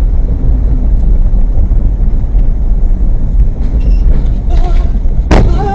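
A vehicle driving: a loud, steady, heavy low rumble of engine and road noise. About five seconds in there is a sharp knock, followed by a brief pitched sound.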